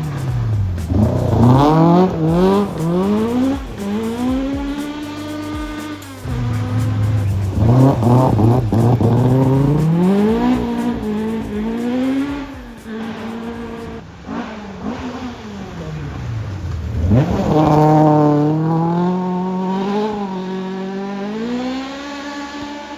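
Rally car engines revving hard and changing gear on a forest stage, the pitch climbing and dropping several times.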